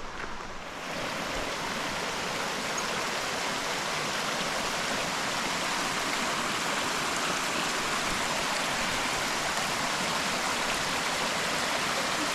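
Mountain creek water rushing, a steady rush that grows louder about a second in and then holds.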